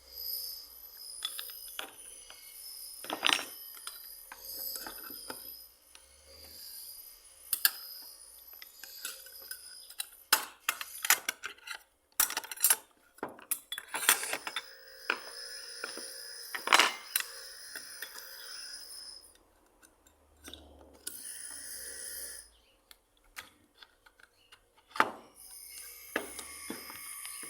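Metal tool parts clinking and knocking against each other and a hard surface, many separate strikes, some ringing briefly.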